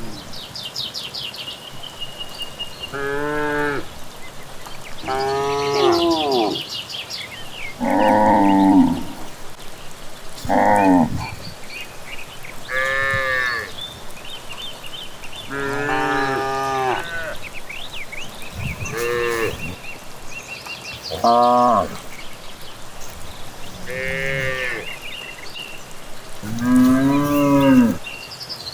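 Cattle mooing one after another, about ten moos of a second or so each, some lower and some higher-pitched, with birds chirping in the background.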